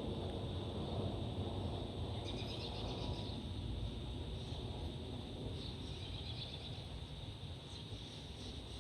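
Distant aircraft rumble slowly fading away, with short bursts of birds chirping about two seconds in and again about six seconds in.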